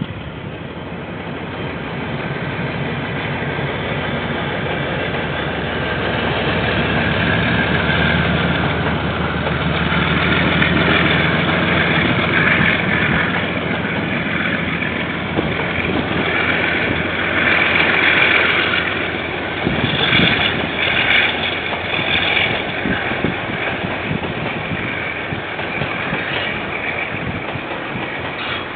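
KiwiRail diesel-hauled train passing: locomotive engine running and wagons rolling on the rails, building up over the first few seconds. High-pitched tones come and go through the middle of the pass.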